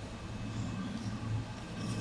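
Steady low hum of a preheated Artillery Genius 3D printer idling, its cooling fans running, with a faint even hiss.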